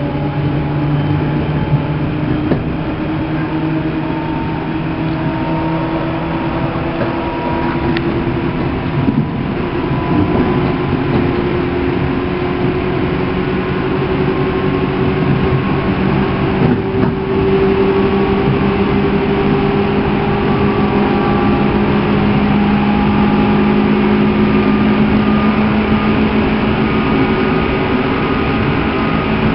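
Seibu New 2000 series electric train running, heard aboard motor car MoHa 2291: the traction motors whine with tones that rise slowly as the train gathers speed, over continuous wheel-on-rail rumble with a few brief knocks.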